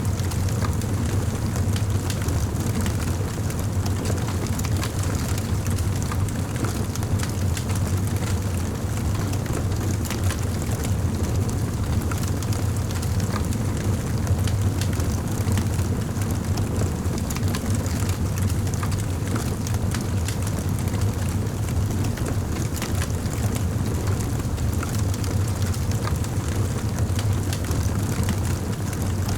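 Wood fire burning in a fireplace: a steady low rumble of the flames with a continuous scatter of small crackles and pops.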